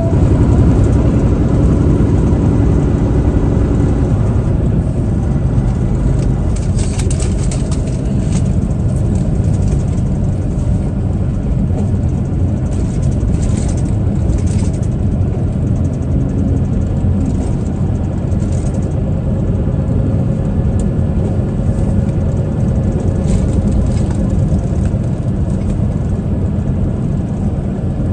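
Truck driving along a road: a steady, loud rumble of engine and tyre noise, with a few brief sharp sounds along the way.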